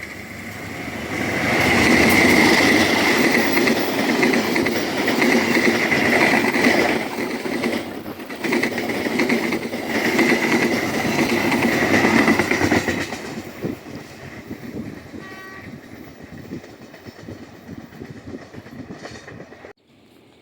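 A train passing through a station, sounding its horn in two long blasts, then its wheels clattering over the rail joints as it fades away. The sound cuts off abruptly near the end.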